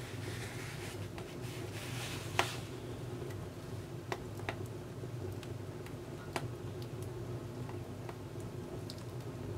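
Firewood burning in a Contura wood stove, crackling with sharp, scattered pops: a loud one about two and a half seconds in, then several smaller ones, over a steady low hum.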